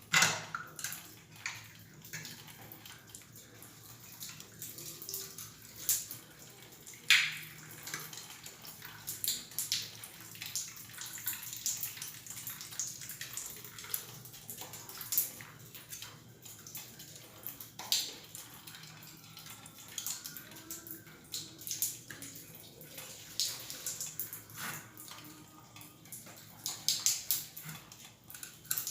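Water trickling and splashing out of a 6-litre electric geyser's tank around its loosened heating-element nut. Scattered clicks and knocks of parts being handled come through it, the loudest about seven seconds in.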